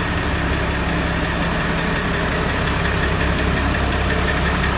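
International Harvester 1586 tractor's diesel engine idling steadily, warming up after a cold start.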